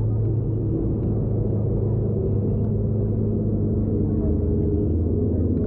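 Engine of a tour vehicle running steadily, a constant low hum with no change in pitch.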